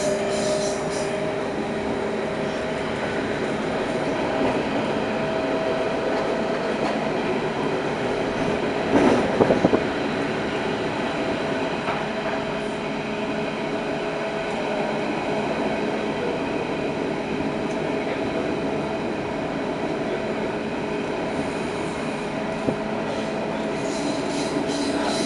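Running noise of a Berlin S-Bahn class 481/482 electric train heard from inside the passenger car: a steady rumble with two steady whining tones, and a short burst of loud knocks about nine seconds in.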